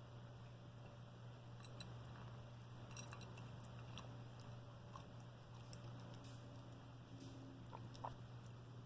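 A pet eating its meal of fruit: faint, scattered chewing clicks over a steady low hum.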